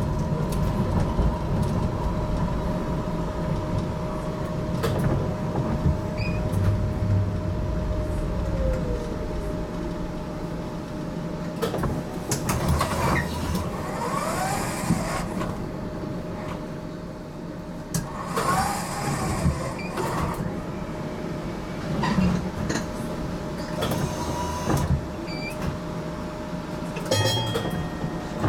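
Interior of a GTL8 articulated tram running along the track: a steady rumble of wheels on rail with a constant whine, scattered knocks, and two short squealing glides about halfway through.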